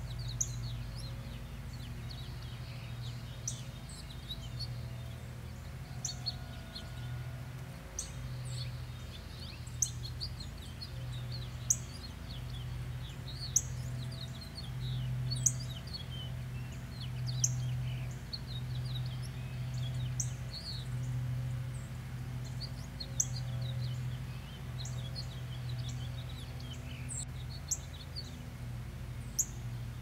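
Woodland birds chirping: a sharp high call repeated about every two seconds over many softer, quick twitters, with a steady low hum underneath.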